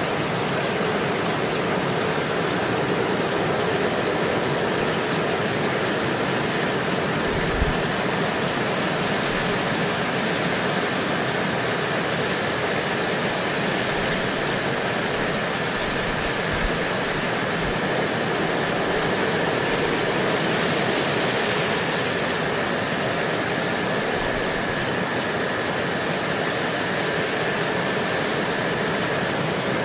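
Steady rain falling on leaves and surfaces, an even hiss, with one brief soft knock about a quarter of the way in.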